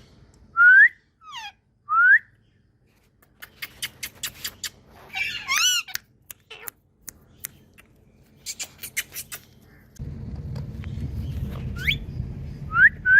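Ringneck parrots giving short, sharp up-slurred whistles, a few at a time, between runs of quick clicking and one harsher squawk. A low steady rumble comes in about ten seconds in.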